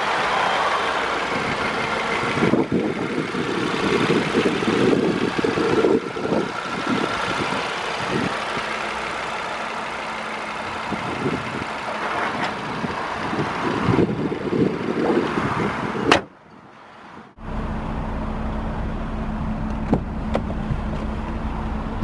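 Audi RS Q3's 2.5-litre turbocharged five-cylinder engine idling steadily, with gusts of wind rumbling on the microphone through most of the first two-thirds. Past the middle the sound cuts off abruptly with a click for about a second, then the steady idle returns.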